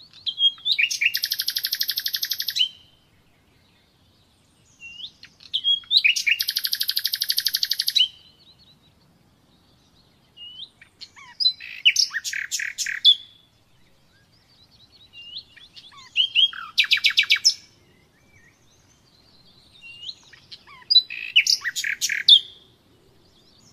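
Common nightingale singing: five separate song phrases of two to three seconds each with short pauses between. The first two phrases end in a long, fast, even trill; the later ones are quick whistled notes and sharp clicks.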